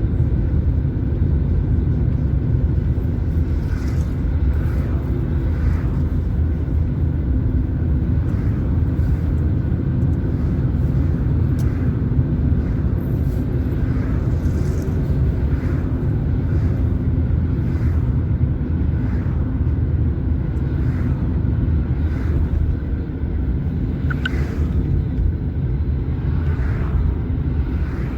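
A car driving along a road, a steady low rumble of engine and tyre noise.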